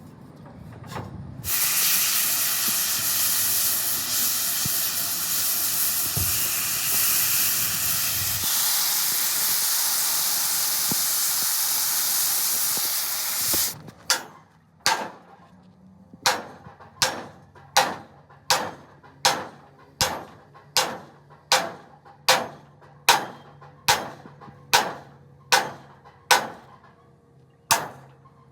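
A loud, steady hiss of rushing air for about twelve seconds that cuts off suddenly, then a steady run of hammer blows on metal, a little more than one a second, each with a short ring.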